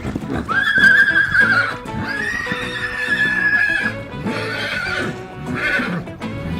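A horse neighing: two long whinnies, the second longer, then two shorter calls near the end, over background music.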